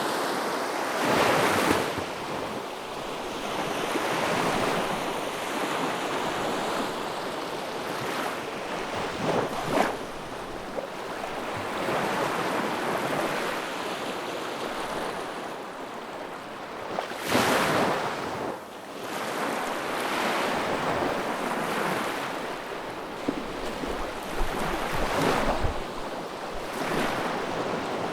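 Wood fire burning in a fireplace: a steady rushing hiss that swells and fades, with scattered crackles and a few sharper pops.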